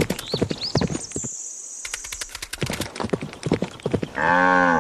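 Added sound effects of a cow: quick clip-clop hoofbeats through most of it, a short high whistle-like tone after about a second, and a cow's moo near the end.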